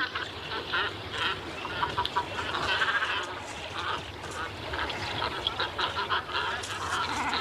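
Breeding colony of great cormorants calling: many short, overlapping calls from several birds at once, with no pause.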